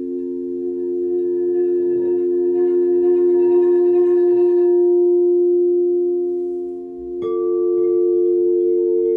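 Singing bowls ringing with several loud, steady overlapping tones. About seven seconds in, a bowl is struck, adding a fresh ringing note with higher overtones.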